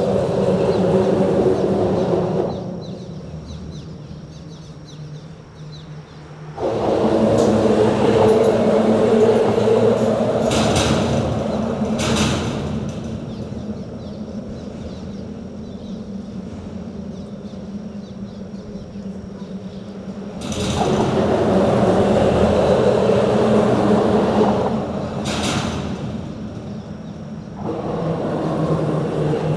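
Traffic crossing a bridge: vehicles pass one after another, each a loud stretch of rumble and tyre noise lasting a few seconds with quieter gaps between. Short sharp clatters come about ten and twelve seconds in and again near the end.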